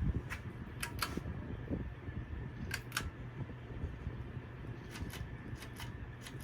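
Four-speed Lasko antique brass ceiling fan running on high speed with a steady low hum, and scattered sharp clicks throughout.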